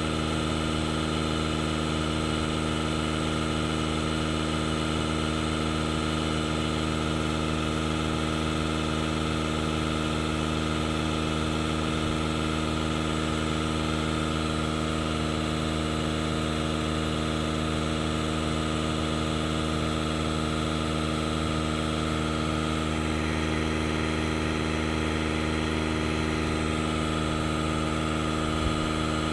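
DeWalt DCC020I cordless tire inflator running steadily, its small piston compressor pumping up a flat car tire with an even motor drone.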